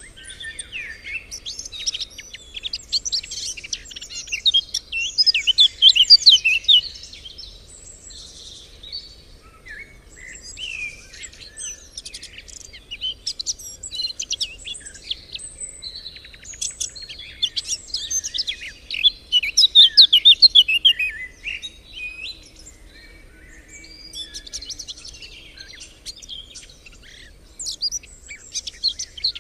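Songbirds singing and chirping, with fast twittering phrases throughout and two louder bouts of rapid song, one a couple of seconds in and one about two-thirds of the way through.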